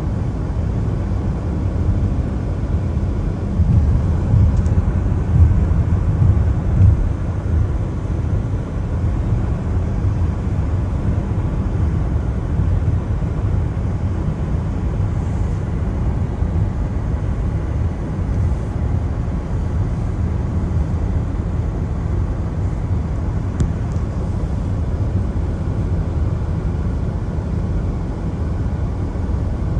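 Steady low road rumble of a car driving on wet roads in the rain, tyre and engine noise with a faint hiss over it, swelling a little a few seconds in.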